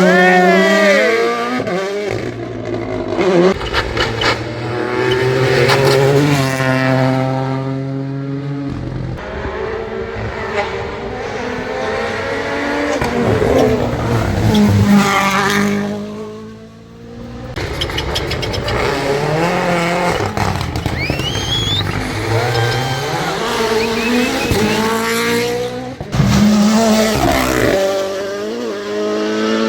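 Rally cars driven flat out: engines revving hard and rising and falling in pitch through gear changes as each car passes, with tyre squeal. Several passes follow one another, with abrupt cuts between them.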